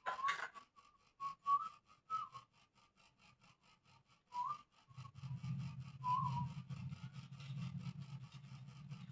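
Short whistled notes, several times, with small pitch slides, over a fast, even ticking. A low steady hum starts about five seconds in and runs on.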